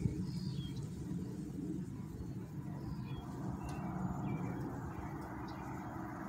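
Freight train of autorack cars rolling past, a steady low rumble of steel wheels on rail. A few short bird chirps are heard faintly above it.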